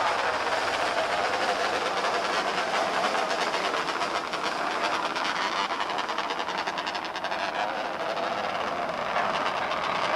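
Several small race car engines running together on the track, a steady drone.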